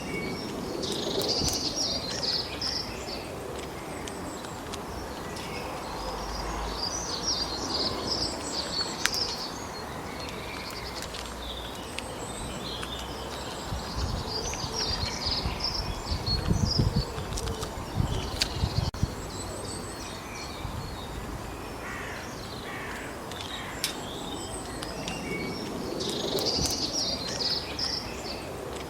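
Wild songbirds singing in bursts of high chirps every several seconds over a steady background hiss. A few low thumps come about halfway through.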